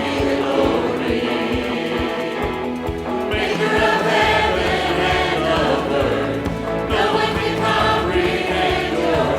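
Choir singing a gospel song with instrumental accompaniment and a steady low beat.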